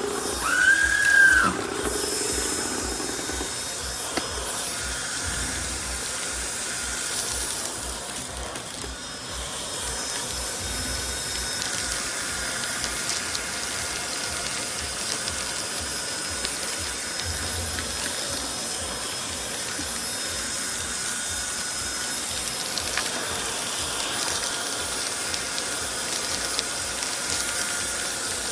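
Cordless stick vacuum running steadily, its motor giving a high, even whine over a hiss of airflow. A brief rising-and-falling cry sounds in the first second or so.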